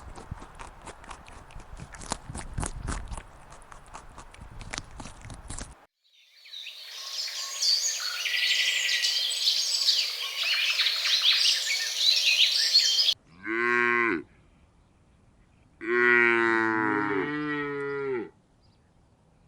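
Cattle mooing: one short moo, then a longer one. Before them come scattered clicks and a stretch of high chirping.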